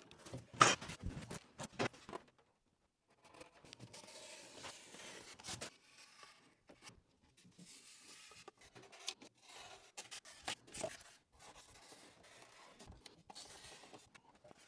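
A piece of insulation being cut and fitted by hand: a few sharp clicks and knocks, then quiet scratchy scraping and rustling with scattered taps.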